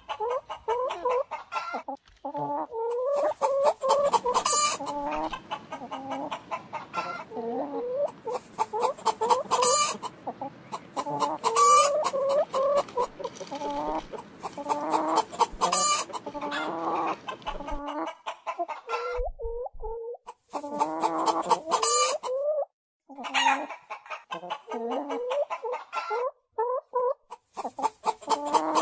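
Chickens clucking and calling over and over in short, pitched bursts. The sound breaks off abruptly a few times, with near-silent gaps between clips.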